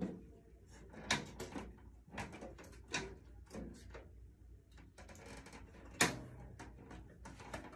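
Drum-kit hardware being handled: scattered knocks and rattles of stand parts and drum. The loudest is a sharp knock about six seconds in.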